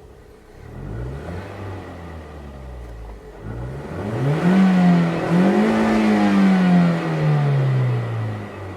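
Small-displacement Toyota car engine revving: a couple of short blips, then a longer, louder climb about four seconds in with a brief dip, and a slow fall away near the end.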